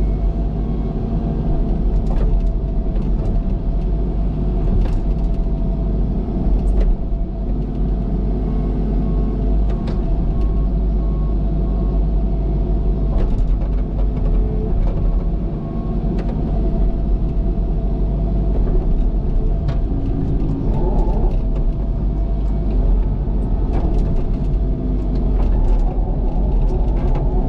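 Cat excavator's diesel engine running steadily under load, with scattered clicks and knocks throughout and a brief rise in engine pitch about two-thirds of the way through.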